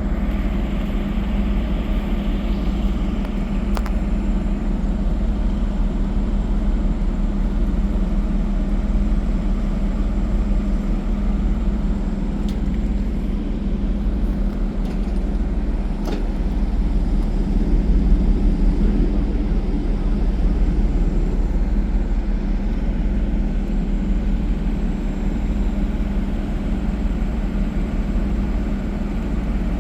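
Steady low rumble and hum of a running vehicle engine, unchanging throughout, with a few faint clicks.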